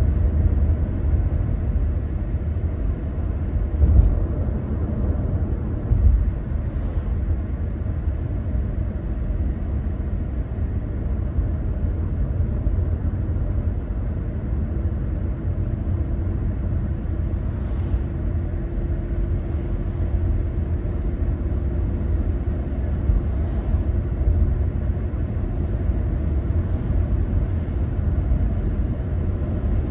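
A moving car: a steady low rumble of road and engine noise, with two brief knocks about four and six seconds in and a faint steady hum joining about halfway.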